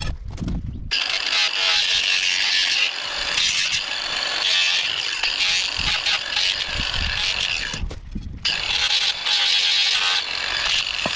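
Power grinder grinding rust off a steel crowbar, a steady harsh hiss of abrasive on metal. It breaks off briefly twice: near the start and about eight seconds in.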